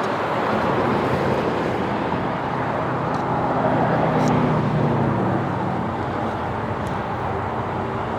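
Roadside traffic rumble: a passing vehicle's engine and tyre noise over a steady outdoor hum, swelling to its loudest about four seconds in and then easing.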